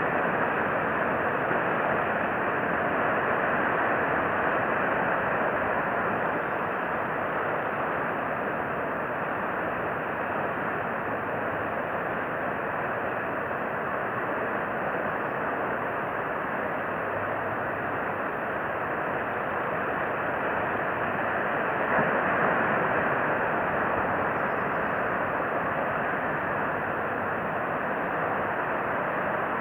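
Steady rushing noise with no distinct events, swelling slightly about 22 seconds in.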